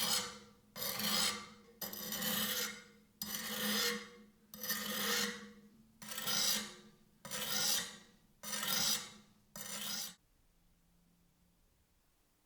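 Slow, even hand strokes rasping across an abrasive or file while working the knife, about one stroke every second and a half, nine in all. They stop about ten seconds in.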